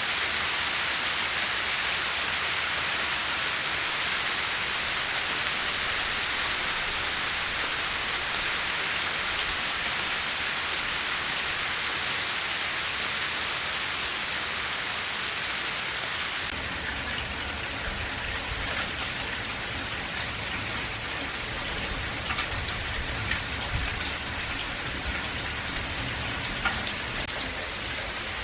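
Steady rain falling in a dense, even hiss. About halfway through the sound changes abruptly to a duller rain with more low rumble and a few scattered sharp ticks.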